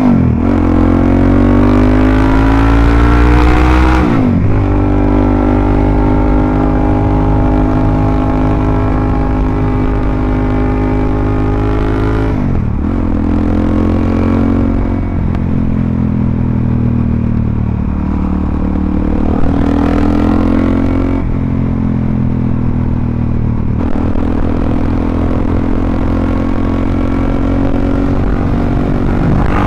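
Suzuki DRZ400SM's single-cylinder four-stroke engine running through a full Yoshimura RS-2 exhaust under way: a rising note as it pulls for the first four seconds, a sharp drop in pitch at a gear change, then steady cruising with several more throttle and gear changes later on.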